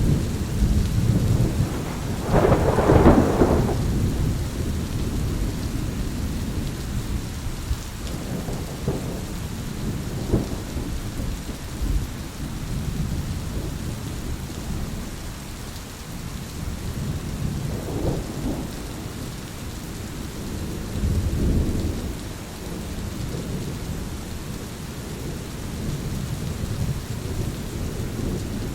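Thunderstorm: steady rain with rolling thunder. The loudest crack-and-rumble comes about three seconds in, and lighter rumbles follow several times.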